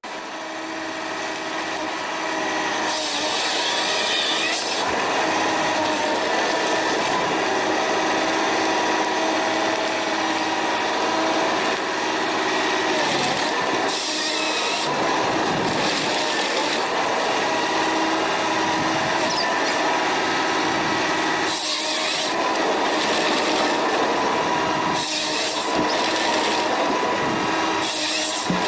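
Automatic log-cutting machinery running steadily with a droning hum, broken about five times by loud, hissy bursts of a second or two each.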